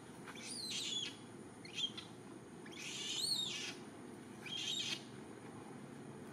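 A bird calling: four high whistled calls, each rising then falling in pitch, the third the longest and loudest.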